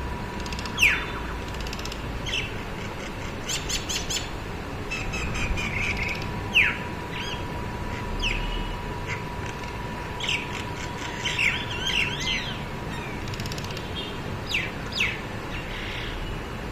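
Several birds squabbling, with sharp downward-sweeping calls and quick bursts of chirping that come and go, the loudest about a second in and again about six and a half seconds in.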